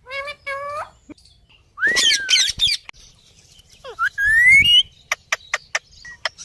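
Parrot calling. It gives two short harmonic calls, then harsh squawks that swoop in pitch about two seconds in. A loud rising call around four seconds in is the loudest sound, and a quick run of sharp chirps follows near the end.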